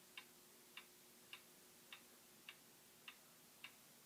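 Faint regular ticking, a little under two ticks a second, over a faint steady hum.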